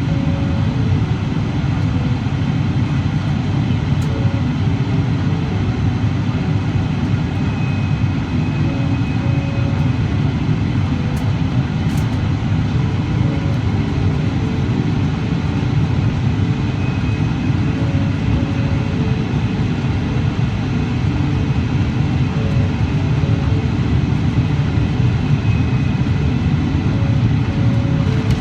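Steady low rumble of a Boeing 777-300ER airliner's cabin: engine and airflow noise heard from inside the aircraft.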